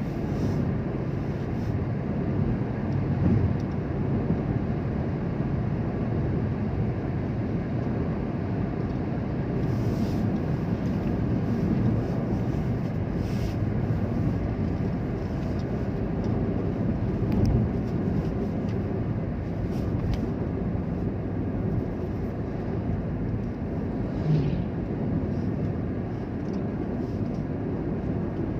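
Steady low rumble of a vehicle on the road, with a few faint knocks.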